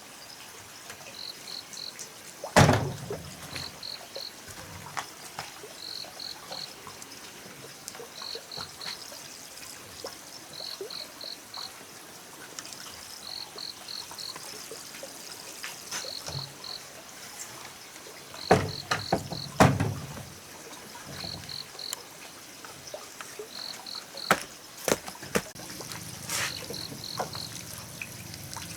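An insect chirping in quick high triplets, the three-pulse chirp repeating about every two seconds. A few loud knocks stand out: one a few seconds in and a pair past the middle.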